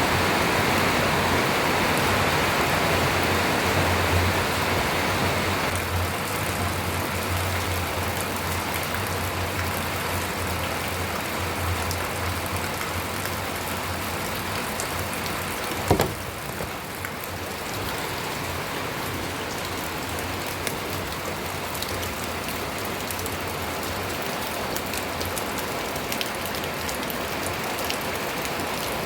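Steady rain falling, with the patter of many single drops; it is heavier for the first few seconds, then eases a little. One sharp knock about halfway through.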